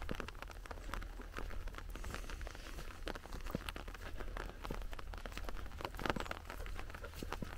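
Soft rain pattering close to the microphone as many light, irregular ticks, with rustling from walking through long, wet grass.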